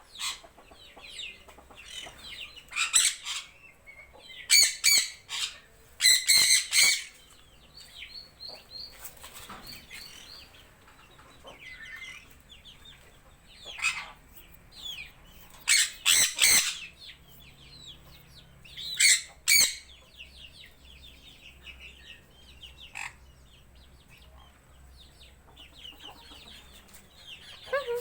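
Birds calling in loud, shrill bursts several seconds apart, with fainter chirping and chatter between them.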